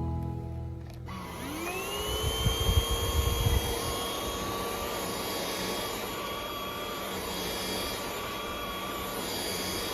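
A 180 W cordless stick vacuum cleaner switched on about a second in: its motor whine rises in pitch as it spins up, then runs steadily over the rush of air.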